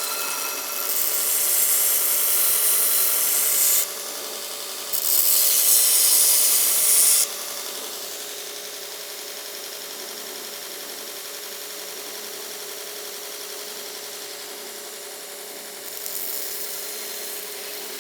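Belt grinder running with a steady hum while a forged railroad-spike knife blade is pressed against the belt in two grinding passes of about three and two seconds, then lightly again near the end.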